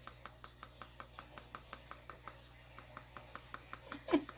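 Steady, rapid clicking, about six even clicks a second, over a low hum. A short voice-like sound comes near the end.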